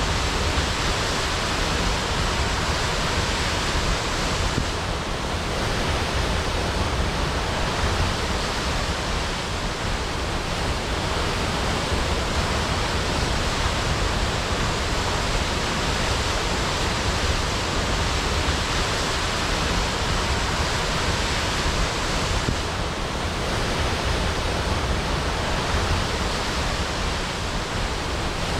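Waterfall crashing: a steady, unbroken rush of falling water with deep rumble underneath.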